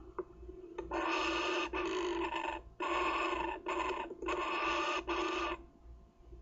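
Kookaburra chick giving harsh, buzzy calls: a run of about five bursts from about a second in until a little past five seconds, over a steady low hum.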